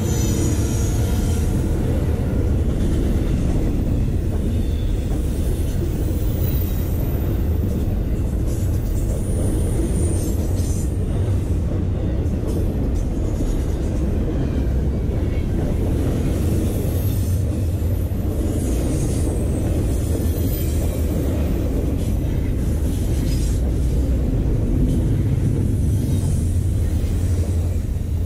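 Norfolk Southern double-stack intermodal freight train passing close by: a steady, loud rumble and clatter of the well cars' wheels on the rails, with faint high wheel squeals now and then.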